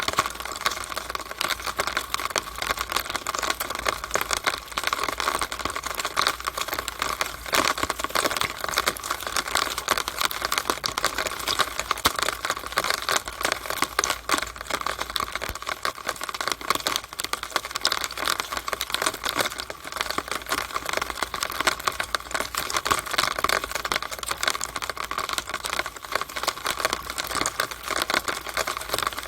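Rain running down a downspout (rainwater drainpipe), a steady stream of many small drops and splashes clicking densely and without pause.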